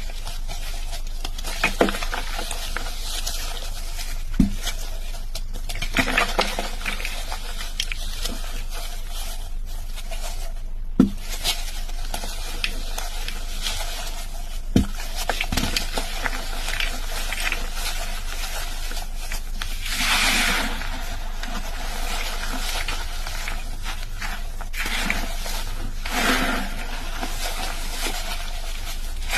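A soft chalk heart being crushed and crumbled, with scattered sharp crunches and soft crumbling passages, the longest about twenty seconds in.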